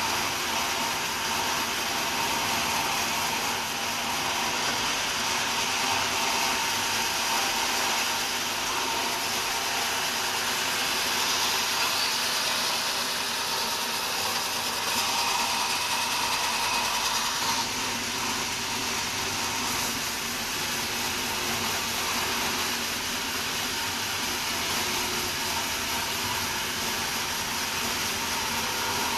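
Sawmill saw running steadily through wood, a continuous mechanical whine and hiss with a few steady tones, getting a little louder and harsher partway through.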